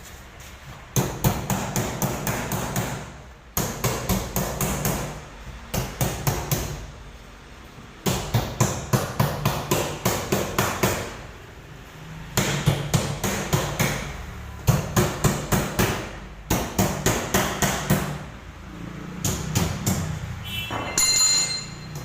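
Hammer striking metal in rapid runs of blows, about four or five a second, in several bursts with short pauses between them, over a steady engine hum. Near the end there is a brief metallic ringing tone.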